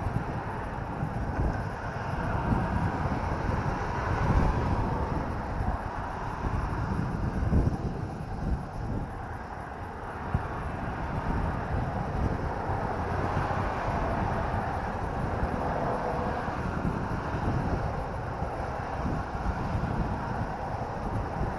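Wind buffeting an action camera's microphone on a moving motorcycle, with a low rumble of road and engine underneath; the level swells and dips in gusts.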